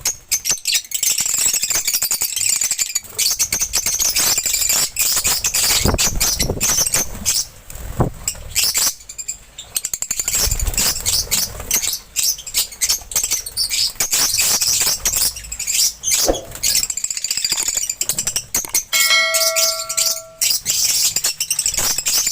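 Lovebirds chirping continuously in a dense, rapid chatter of sharp high calls. A brief steady ringing tone sounds near the end.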